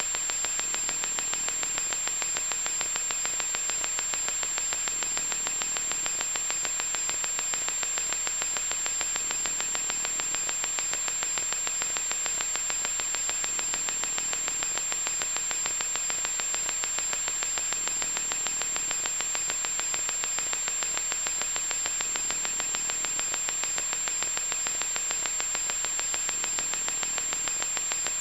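Loud, steady electronic static: a harsh hiss strongest in the upper middle range with a fast crackle running through it, and a thin steady high tone over the top. It doesn't change.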